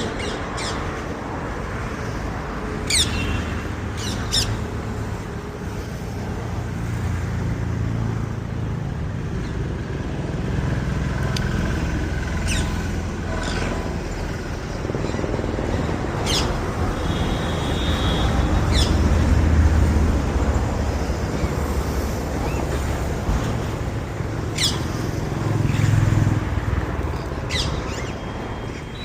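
Parrot giving short high chirps every few seconds over a steady low rumble that swells and fades, like road traffic.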